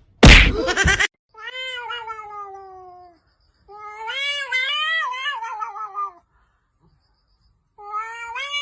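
A short, loud noisy burst, then a cat yowling in long drawn-out meows: a falling call about a second in, a longer wavering one in the middle, and another beginning near the end.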